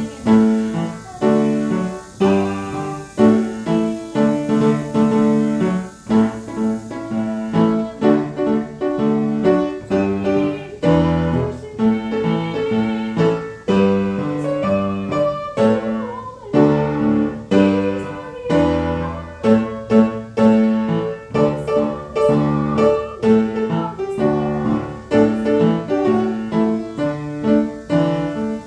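Piano playing a flowing piece of chords with a melody over them.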